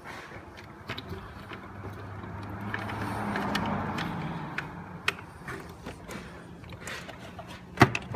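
Clicks and knocks of parts and tools being handled under a vehicle's hood, the sharpest one near the end, over a steady low mechanical hum that swells and fades midway.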